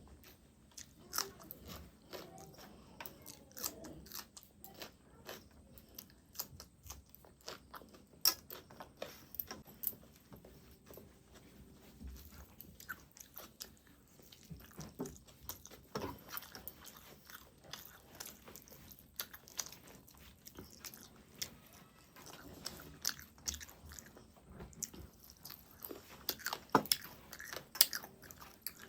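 A person eating, biting and chewing mouthfuls of rice and spicy chicken curry, with many short, irregular crunches and mouth clicks.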